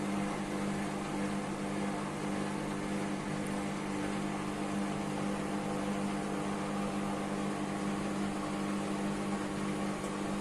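IFB washing machine running a spin-only cycle with a single towel: a steady motor and drum hum at an even pitch.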